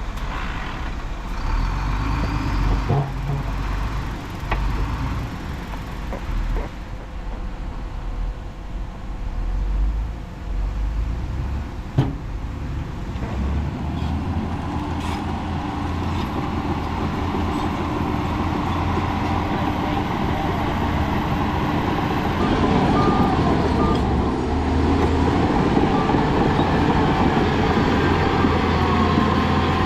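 Heavy diesel earthmoving machinery engine running under load, with a few sharp metallic knocks in the first half. It grows louder and steadier about two-thirds in.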